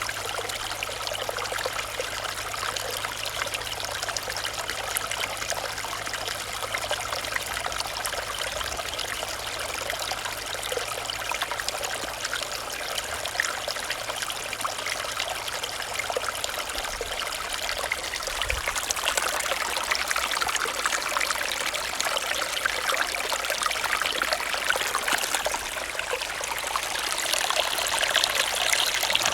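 Running stream: a steady trickling, babbling flow of water that grows somewhat louder and brighter in the last few seconds.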